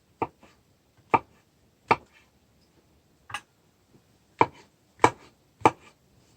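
A knife chopping mushrooms, about seven sharp chops at an uneven pace.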